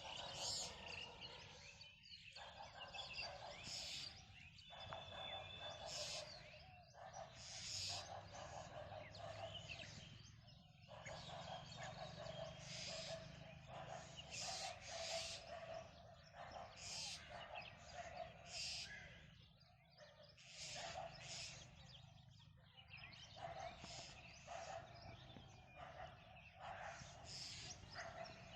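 Faint chorus of birds chirping and calling, with short calls following one another closely and without pause.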